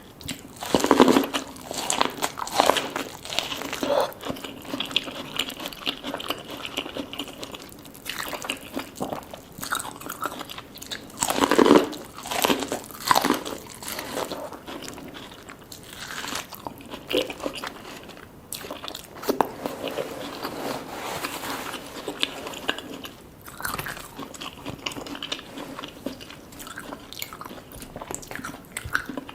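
A person biting and chewing food close to the microphone, with crisp crunching bites in clusters; the loudest bites come about a second in and again around eleven to thirteen seconds in.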